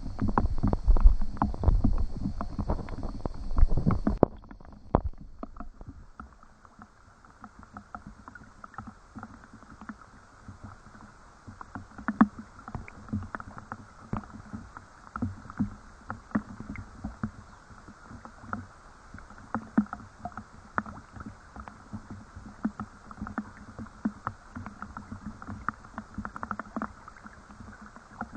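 Rain falling and dripping in many small, irregular drops. The first few seconds are louder and deeper, then cut off abruptly. After that the drip and patter carry on lighter and steady.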